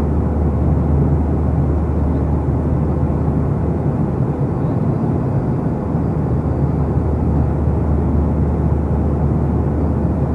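Steady in-flight cabin noise of a Boeing 737-800: the drone of its CFM56 turbofan engines and the rush of airflow, with a constant low hum and no change.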